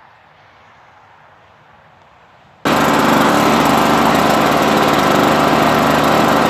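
After a quiet stretch, a small engine starts abruptly, about two and a half seconds in, and runs loud and steady at high speed: the motor of the 'twin turbo' powered snow shovel.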